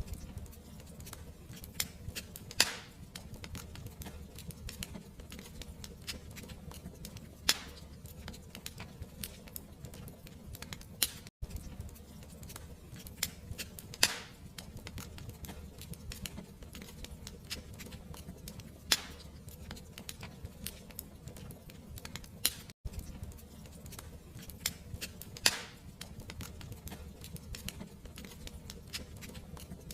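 Fireplace fire crackling: a dense, steady scatter of small crackles over a low rumble, with a louder pop every four or five seconds. The sound drops out for an instant twice.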